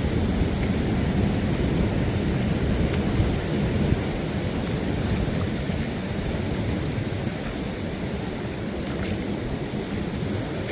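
Wet, windy coastal ambience in the rain: a steady low rumble with a few faint ticks of drops, a little louder for the first few seconds.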